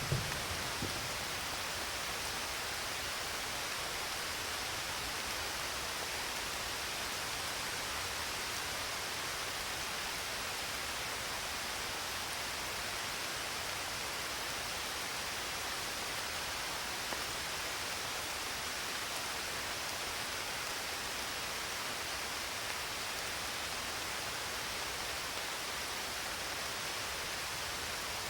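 Steady, even hiss of rain. A low rumble dies away in the first second.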